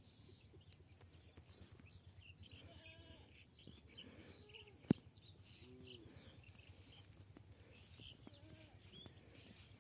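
Faint rural ambience of small birds chirping, with a few short low calls in the middle and one sharp click about five seconds in.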